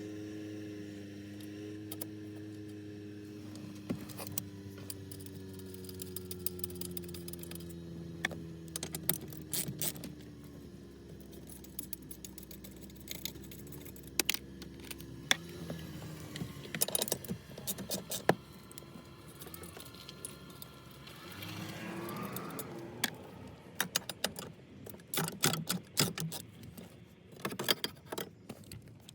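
Metal clinks, clicks and jingles of hand tools and small parts being handled, coming thickest in the second half. Under them in the first half runs a low hum that slowly falls in pitch and fades out about halfway through.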